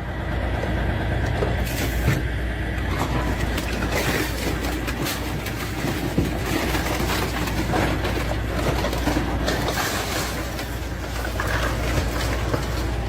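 Train passing close by: a steady heavy rumble with wheel clatter on the rails, and a few short sharp knocks in the first half.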